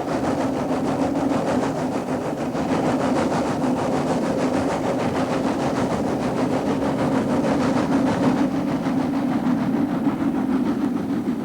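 Snowdon Mountain Railway rack train climbing the mountain: steady running noise with a fast, even beat. The higher part of the sound drops away about eight seconds in.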